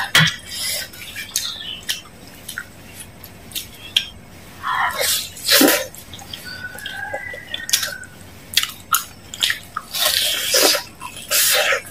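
Close-miked biting and chewing of crispy fried chicken legs: irregular sharp crunches of the fried coating mixed with wet chewing sounds.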